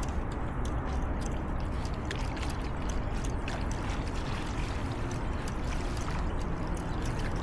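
Steady rush of river water around a kayak, with scattered small clicks and ticks running through it.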